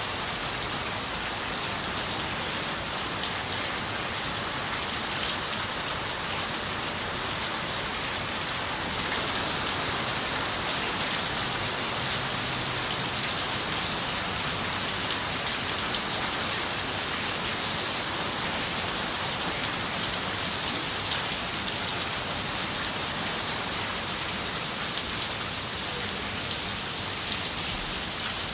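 Steady rain falling on a window: an even hiss with scattered drop ticks. It grows slightly heavier about nine seconds in.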